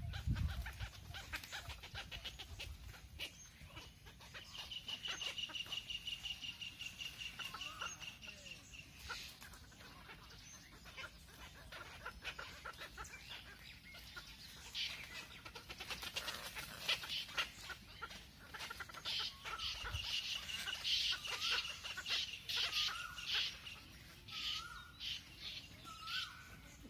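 Birds calling: bouts of rapid, high-pitched chattering, with short wavering calls mixed in, busiest in the second half.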